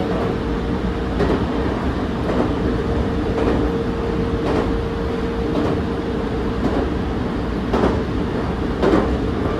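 Electric train running at steady speed, its wheels clicking over rail joints roughly once a second over a continuous rumble, with a steady hum that fades away partway through.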